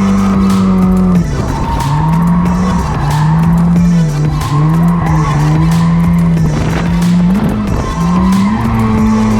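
Drift cars held at high revs with tyres squealing and skidding, mixed with background music that has a steady beat.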